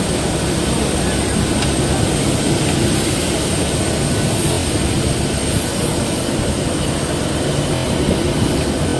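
Jet aircraft engines running: a steady, unbroken roar.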